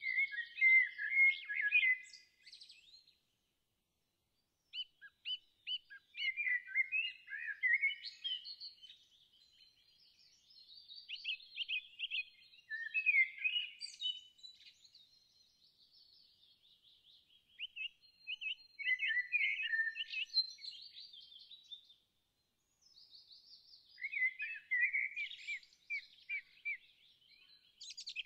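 Songbirds singing: quick runs of chirps and trills, coming in phrases a few seconds long with brief pauses between them.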